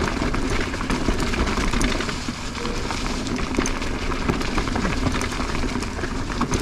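Mountain bike rolling over a rough, rocky trail: tyres crunching over loose stones, with frequent clicks and knocks from the bike rattling over the rocks.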